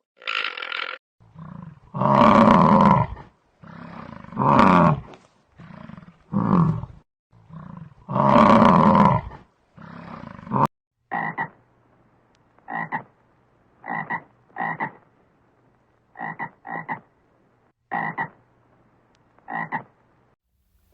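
Animal calls: a run of long, loud, low calls, then from about halfway on a series of short calls repeated about once a second.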